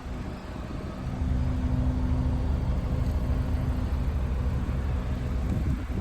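A motor vehicle running close by: a steady low engine hum that gets louder about a second in and eases off near the end.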